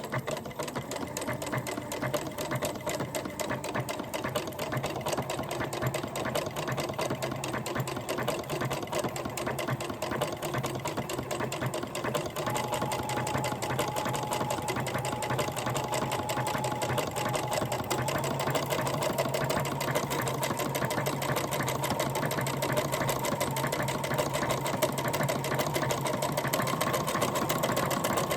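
Janome Memory Craft 9000 computerized sewing machine running continuously, stitching a knit stitch (stitch 21) along a fabric edge: a steady, fast needle clatter over the motor's hum.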